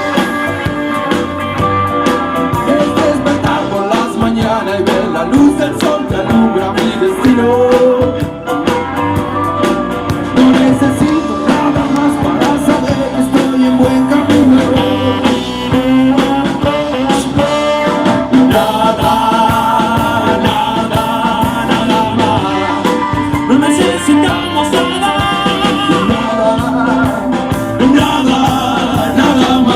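A blues-rock band playing with guitar and a singer, over a steady beat.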